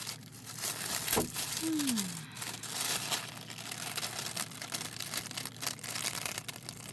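Thin plastic cover sheet of a diamond painting canvas crinkling and crackling as it is handled and pulled against the canvas's strong adhesive.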